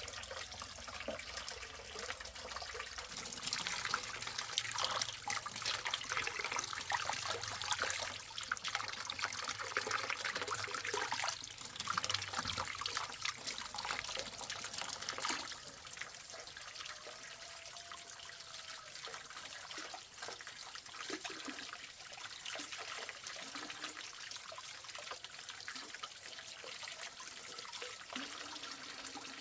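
Water running and splashing, with many small splashes and drips; busier for the first half, quieter and steadier after.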